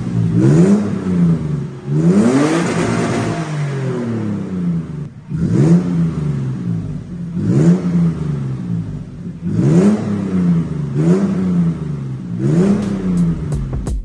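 2015 Toyota FJ Cruiser's 4.0-litre V6 through an aftermarket CCP cat-back exhaust, revved in about seven or eight short throttle blips. The pitch climbs quickly each time and falls back between them.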